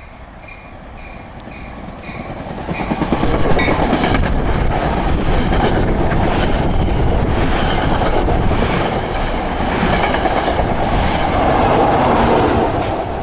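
NJ Transit passenger train passing at speed: it builds up over the first few seconds, then rushes by loudly with wheels clicking over the rail joints, and fades near the end. A bell rings about twice a second as it approaches.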